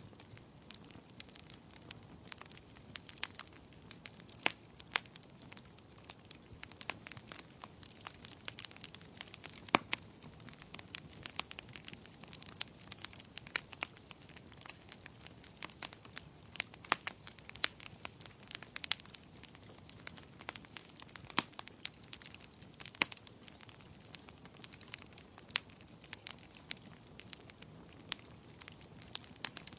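Fireplace fire crackling: irregular sharp pops and snaps, several a second and uneven in loudness, over a soft steady hiss.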